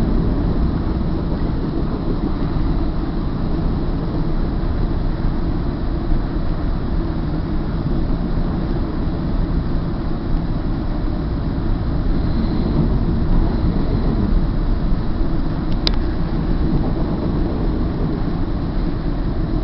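Freight train passing on the adjacent track, a steady low rumble of wheels on rail heard from inside a stationary passenger coach. A single sharp click about sixteen seconds in.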